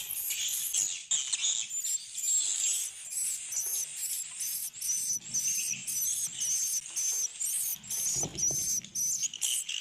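Swiftlets twittering densely: high-pitched chirps repeating about two to three times a second.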